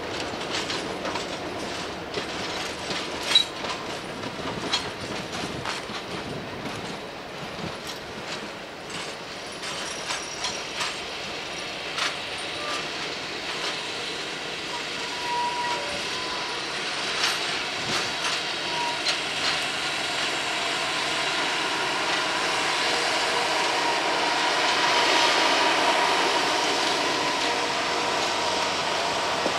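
Freight train rolling by, its wheels clicking over rail joints in an irregular series over a steady rumble that grows louder in the last few seconds.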